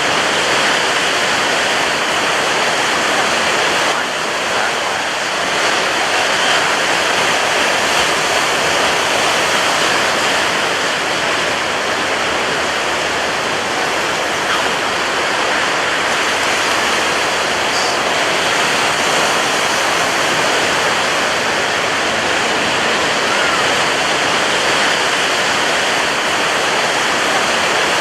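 Ocean surf breaking on a beach: a steady, dense rush of water with little rise and fall.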